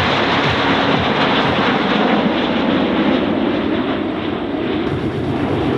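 Jet noise from the Snowbirds' CT-114 Tutor jets flying past, a loud, steady rush.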